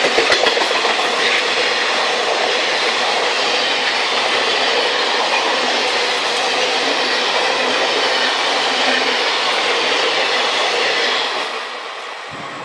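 Indian Railways train running on the rails, a loud steady noise of wheels and carriages that fades away over the last second and a half.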